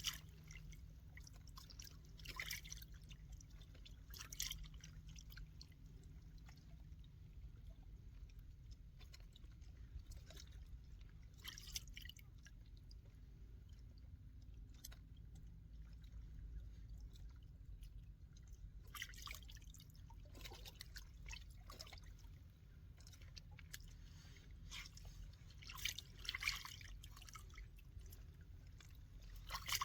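Faint water lapping and dripping, with short splashy bursts every several seconds over a low steady rumble.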